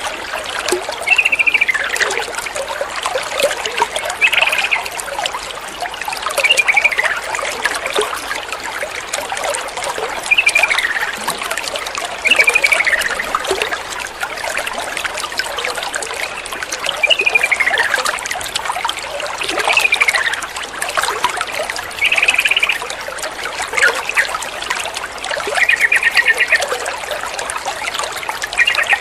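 Running water trickling steadily, with a yellow-vented bulbul calling about every two to three seconds in short falling notes and brief buzzy trills.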